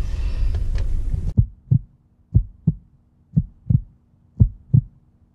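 Heartbeat sound effect: paired low thumps, lub-dub, about once a second, coming in about a second and a half in after the room noise cuts out abruptly.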